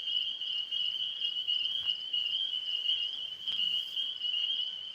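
Crickets chirping in a steady, unbroken high-pitched chorus, with a few faint ticks.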